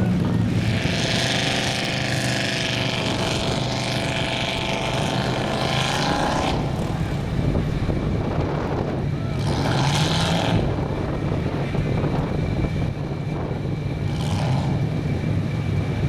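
A big mud truck's engine runs steadily, with a long loud rev for the first several seconds and shorter revs about ten and about fourteen seconds in.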